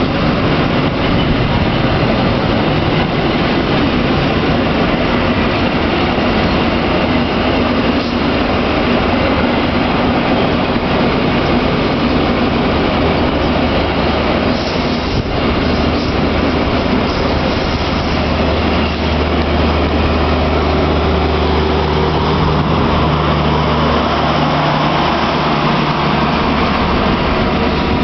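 Passenger train running past on the next track, heard close up from a train window: loud, steady wheel and rail noise, with a low engine hum coming in about halfway through.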